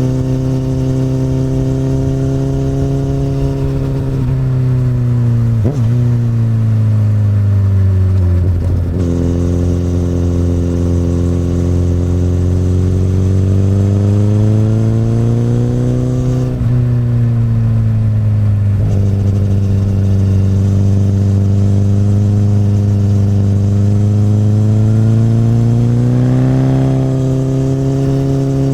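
Honda CBR1000RR sport bike's inline-four running through an Akrapovic exhaust under way. The engine pitch drops and climbs several times as the throttle is rolled off and opened, with a few quick breaks in the note.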